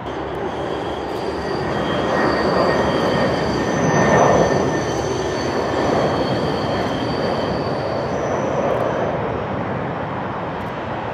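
A large vehicle passing, with a rumble that swells to a peak about four seconds in and then fades, and several high steady whining tones over it.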